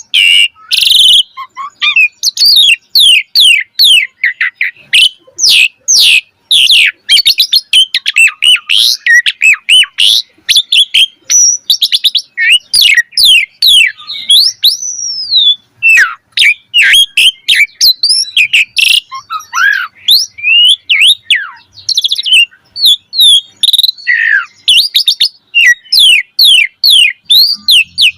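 Asian pied starling (jalak suren) singing hard, a fast, unbroken string of varied chattering notes and whistles with sweeping glides, among them one longer rising-then-falling whistle about halfway through.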